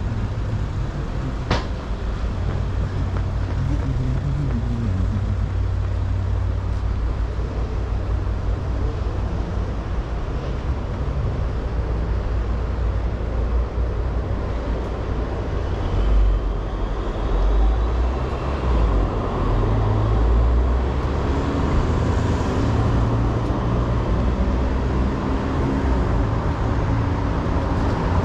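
Steady city street traffic: road vehicles running past, with a low rumble that gets heavier about halfway through. A single short sharp click sounds near the start.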